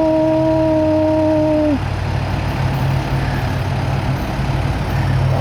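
Diesel freight locomotive's air horn sounding one held note, cutting off with a slight sag in pitch under two seconds in, over the steady low rumble of the locomotive engines, which carries on after the horn stops.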